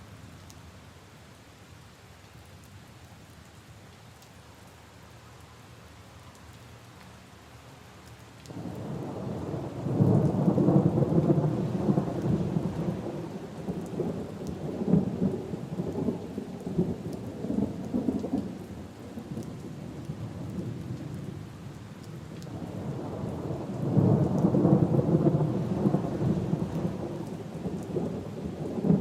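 Steady rain, with thunder rumbling over it twice: a long rumble begins suddenly about nine seconds in and fades after about ten seconds, and a second swells up near the end.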